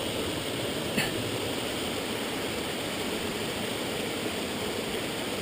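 Steady rush of a fast-flowing river and small waterfalls over rocks, with one short sharp knock about a second in.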